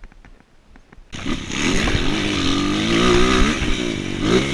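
Motocross motorcycle engine revving, starting suddenly about a second in, its pitch rising and falling with the throttle.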